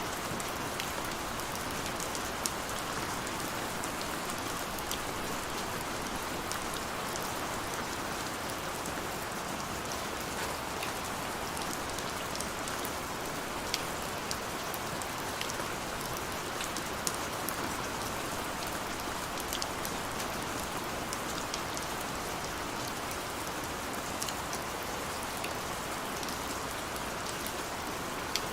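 Steady rain falling, with scattered sharp drip ticks on top.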